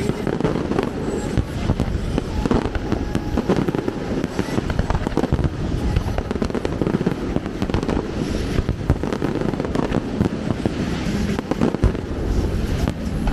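Aerial fireworks going off in a dense, continuous barrage of bangs and crackles with no let-up.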